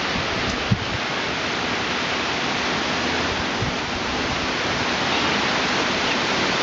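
Wind-driven heavy rain in a hurricane feeder band squall: a loud, steady, even rush that does not let up.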